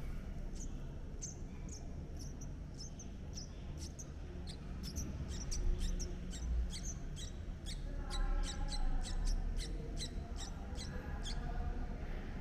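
Red-whiskered bulbul nestlings begging: thin, very high squeaks repeated rapidly, growing denser partway through. A lower, fuller bird call joins about eight seconds in.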